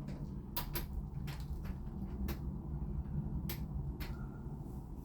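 Scattered sharp clicks and taps of smart-lock parts being handled and fitted, about seven in all, over a steady low hum.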